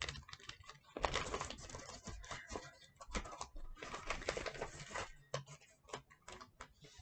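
Handmade paper puppet being handled: quick, light taps and crinkly clicks coming in irregular bunches.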